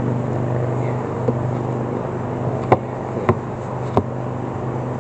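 Beehive boxes being lifted and handled: three sharp knocks in the second half, over a steady low hum.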